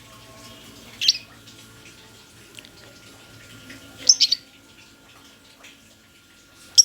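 Lovebird giving short, shrill, high-pitched chirps: one about a second in, a quick run of two or three a little past the middle, and one more at the end, over a faint steady background hum.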